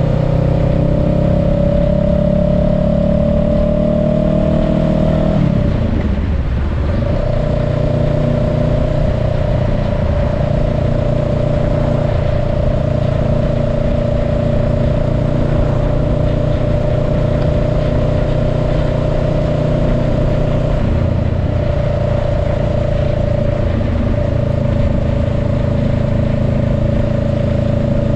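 Honda Rebel 500's parallel-twin engine, heard from the rider's seat, pulling steadily with a rising pitch for about five seconds. About six seconds in the pitch breaks and drops briefly, as with an upshift. After that it runs steadily at cruising speed.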